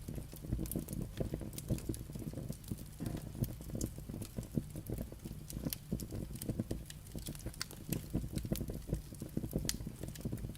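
Wood fire burning, with irregular sharp crackles and pops of the logs over a steady low rumble.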